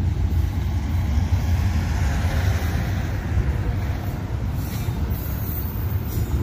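Union Pacific intermodal freight train rolling past: a steady rumble of wheels on rails.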